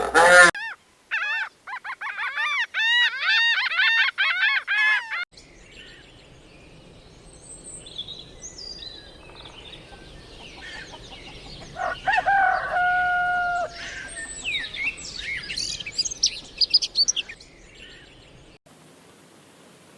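Bird calls: first a fast run of repeated, arching chirps for about five seconds, then a different clip with scattered bird calls over outdoor background noise and one longer held call about twelve seconds in.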